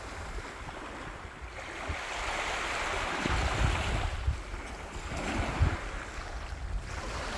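Sea waves washing onto the shore in slow surges that rise and fade, with wind buffeting the microphone.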